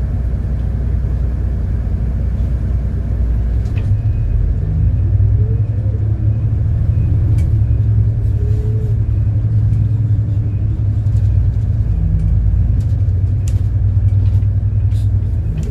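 City bus engine running as the bus travels, a steady low rumble; about four seconds in the engine note steps up, with a few sharp clicks and rattles along the way.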